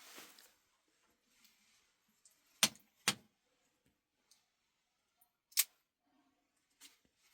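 A few sharp clicks or knocks from objects being handled. The two loudest come about half a second apart, a third follows a couple of seconds later, and a few fainter ticks fall between them.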